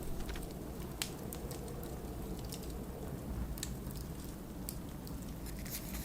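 Wood fire crackling, with sharp scattered pops about a second apart, over the steady low rumble of blizzard wind.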